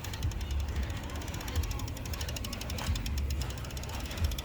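Bicycle freewheel ticking rapidly and evenly as the bike coasts, over a heavy low rumble of wind on the microphone.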